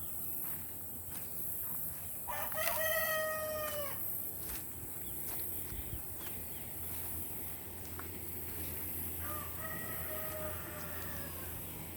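A rooster crowing twice: a loud crow about two and a half seconds in and a fainter one about nine seconds in, each held for about a second and a half and sagging in pitch at the end.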